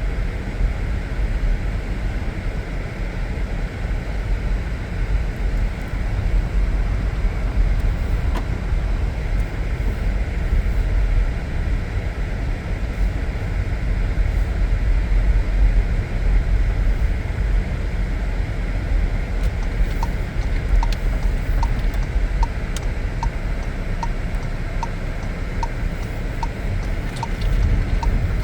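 Low steady rumble of a car being driven, engine and road noise heard from inside the cabin. About two-thirds of the way in, a turn-signal indicator starts ticking at an even pace, somewhat under twice a second.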